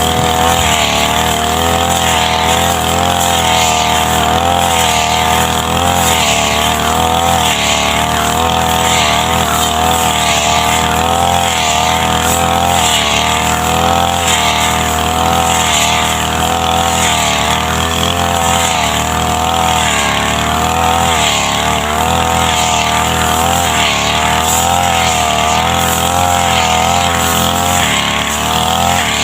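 Engine of a grass-cutting machine running continuously under load, its pitch wavering up and down every second or so as it cuts.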